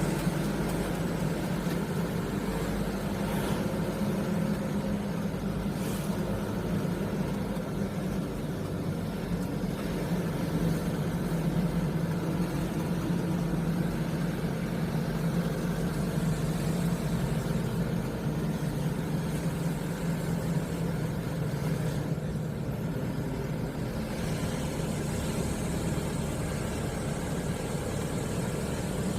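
Mitsubishi Canter light truck's diesel engine running steadily as the truck drives, a constant low hum with road noise.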